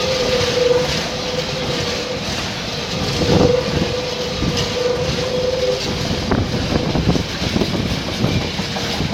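A freight train's loaded flat wagons rolling past over a level crossing, with steady rumbling and irregular knocks from the wheels. A steady pulsing whine runs through the first six seconds and then stops.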